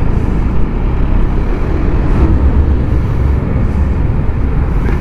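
Riding noise from a Yamaha Aerox 155 scooter on the move: a steady, loud rush of wind over the microphone mixed with engine and road noise, heaviest in the low end.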